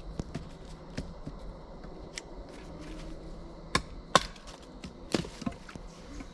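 Wood being split on a log firewall: a handful of irregular, sharp wooden knocks. The loudest two come close together about four seconds in, with another just after five seconds.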